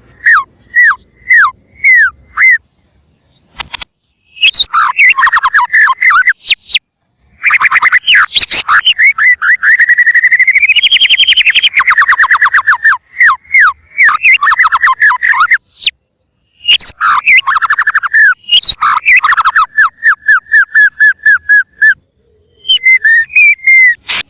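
White-rumped shama singing loudly in its full, prolific 'gacor' song: phrases of quick downward-sweeping whistled notes broken by short pauses, with a long rapid trill that rises and then falls in pitch about ten seconds in.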